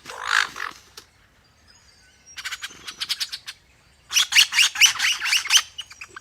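A bird calling in rapid runs of sharp chirps. There is a short harsh sound at the very start, a brief run a little over two seconds in, and a longer, louder run of quick notes, about six a second, from about four seconds in.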